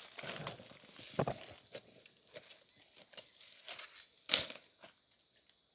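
Dry forest leaf litter and twigs rustling and crackling under movement, in scattered small crackles with one sharper snap about four seconds in. A steady high insect hiss runs underneath.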